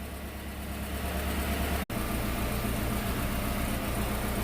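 Chevy truck's newly installed Jasper remanufactured engine idling steadily just after its first start-up. The sound drops out for an instant about two seconds in, then the even idle carries on.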